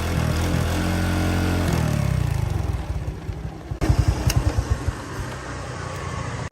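Motorbike engine idling steadily, then slowing about two seconds in and winding down in a few slow, uneven firing pulses, with a sharp click near the middle.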